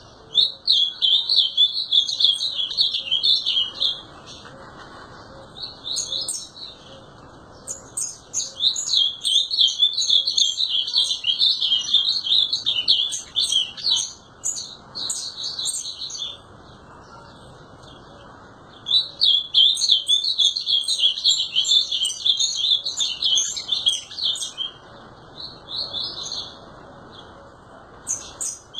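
Ultramarine grosbeak (azulão) singing: several fast warbled song phrases of varying length, a long one through the middle, separated by pauses of one to three seconds, over a steady low background hiss.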